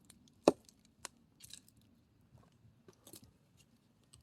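An axe striking a log once, a sharp chop about half a second in, followed by a lighter knock about a second in and faint scattered clatter of wood.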